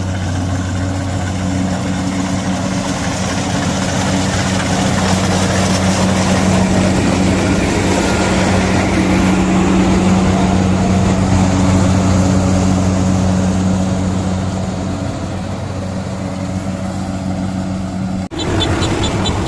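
Kubota combine harvester running steadily: a constant low engine drone under a broad mechanical clatter that swells and eases. It cuts off abruptly near the end.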